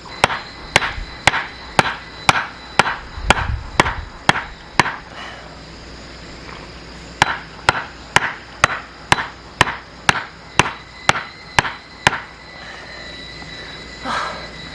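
Firewood being split by hand: a steady run of sharp wooden knocks about two a second, stopping for a couple of seconds near the middle, then going on again.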